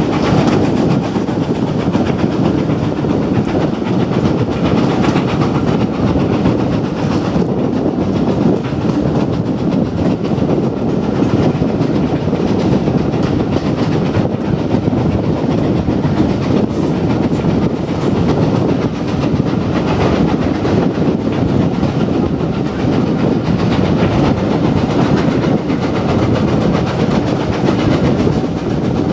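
Steam-hauled heritage passenger train heard from on board a carriage: a steady rumble of the running coaches, with wheels clicking over the rail joints.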